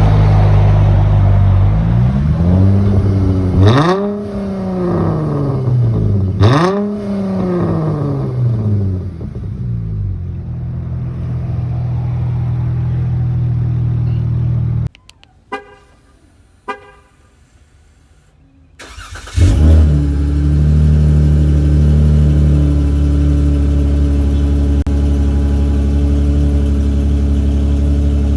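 Car engine running through an exhaust with the mid muffler and resonator deleted: a steady loud drone, blipped twice in quick rises and falls of revs about 3 and 6 seconds in. The sound drops away for a few seconds past the middle, with a few clicks, then the engine drone comes back steady and loud.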